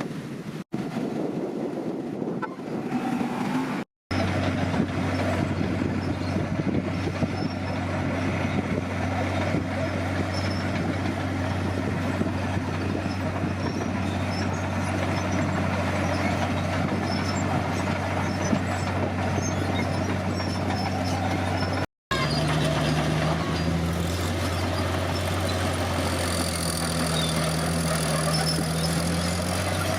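Komatsu D50PX bulldozer's diesel engine running steadily under work. The sound drops out briefly twice, about 4 and 22 seconds in, and after the second break the engine note rises and falls.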